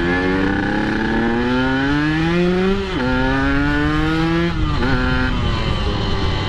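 Yamaha RX-King's two-stroke single-cylinder engine pulling hard through its six-speed gearbox. Its pitch climbs steadily, drops sharply at an upshift about three seconds in, climbs again, then drops at a second upshift a little before five seconds and settles lower.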